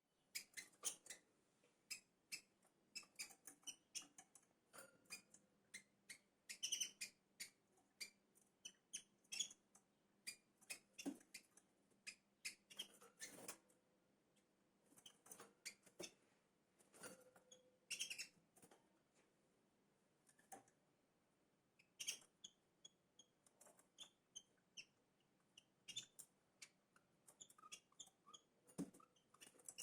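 Small birds giving faint, short chirps, with many scattered clicks and taps throughout.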